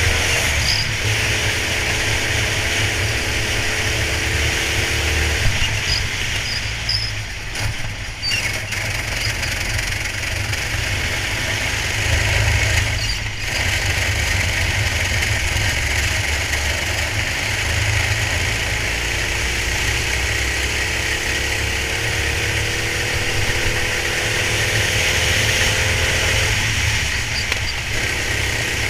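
Racing kart engine heard onboard, running under throttle through a lap, with a heavy steady rumble and hiss. The engine note drops off about five seconds in and later climbs slowly for several seconds before falling away again.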